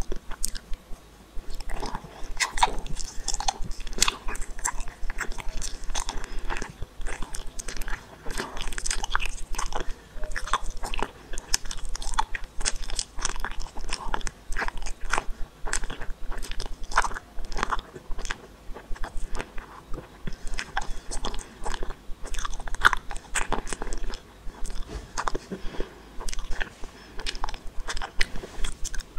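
Close-miked eating sounds of a gummy ball being bitten and chewed: a dense run of many short clicks and smacks.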